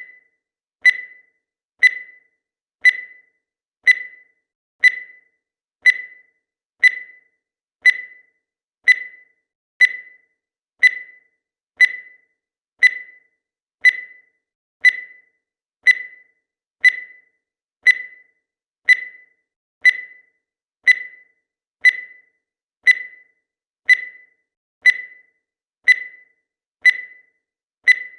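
Countdown timer sound effect: a short, high electronic beep once every second, each one dying away quickly, in a steady, even rhythm.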